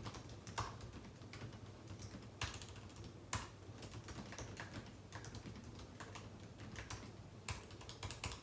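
Typing on a computer keyboard: a steady run of irregular key clicks, with a few louder strokes among them, stopping at the very end.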